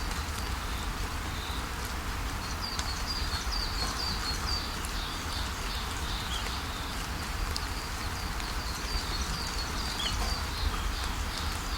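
Steady rainfall hiss with birds chirping over it in runs of short, high, repeated notes, with a low rumble underneath.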